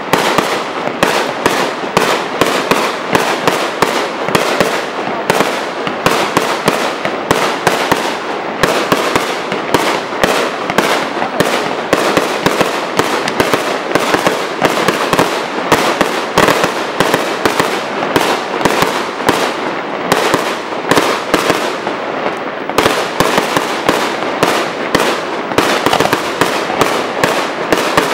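Professional aerial fireworks display: a continuous barrage of launch thumps and shell-burst bangs, several a second, with no let-up.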